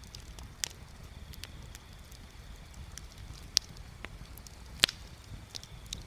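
Bonfire crackling: irregular sharp pops and snaps of burning wood, a few a second at most, the loudest about five seconds in, over a steady low rumble.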